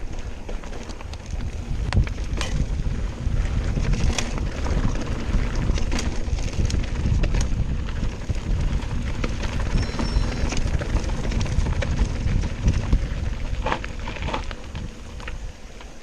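Mountain bike descending a rough trail: wind buffeting the microphone over the rumble of tyres on loose ground, with frequent sharp clicks and knocks as the bike rattles over bumps.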